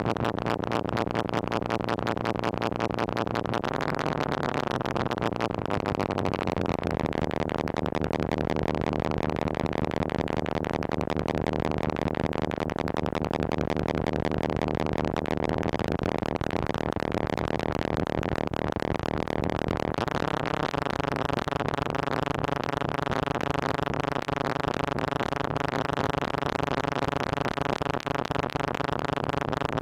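Moog Mother-32 analog synthesizer sounding a continuous buzzy drone, its pitch and tone pushed around by control voltages from a Comdyna GP-6 analog computer. The pitch slides down about four seconds in, and near two-thirds of the way through the tone switches abruptly to a brighter, denser sound.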